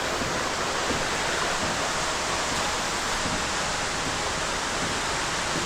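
Waterfall pouring into a river, a steady loud rush of falling water.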